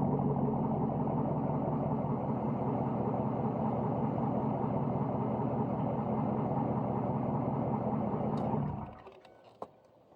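2008 Chevrolet Suburban's 5.3-litre V8 idling steadily through dual straight pipes with the muffler removed, then stopping abruptly near the end, followed by a couple of faint clicks.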